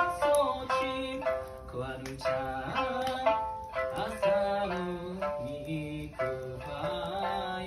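Sanshin, the Okinawan three-stringed lute, played with a run of plucked single notes over a steady held note.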